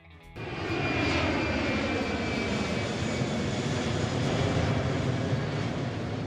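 Jet aircraft engine noise starting suddenly, with a high whine that slowly falls in pitch over a dense, steady rush.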